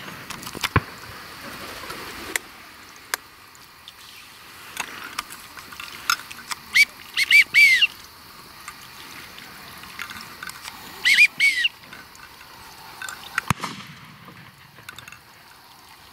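Teal calling: short, high, whistled peeps in quick clusters of three to five, once about seven seconds in and again about eleven seconds in. A few sharp clicks sound now and then.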